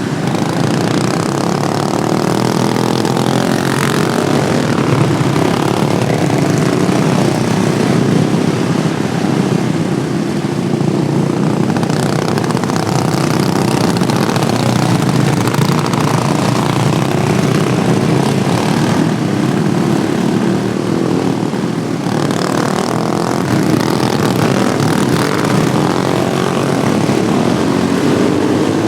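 Several modified Wheel Horse racing lawnmowers' small engines running hard together in a heat race, their pitches rising and falling as they lap the track.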